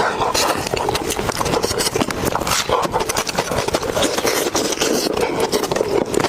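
Close-up eating sounds: steady, rapid wet chewing and smacking while eating cooked pig's head.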